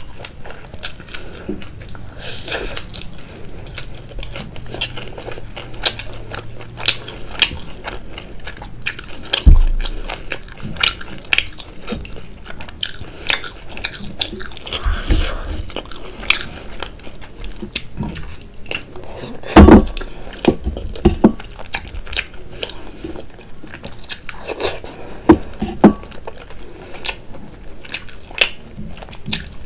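Close-miked eating: a person biting and chewing soupy noodles and whole boiled eggs, with many sharp mouth clicks and a few louder thumps, the loudest about twenty seconds in.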